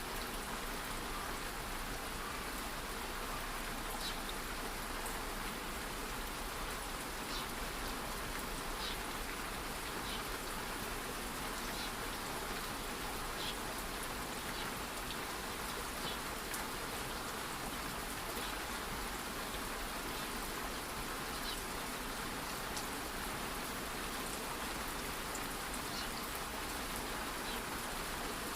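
Steady light rain, an even hiss with scattered single drops ticking.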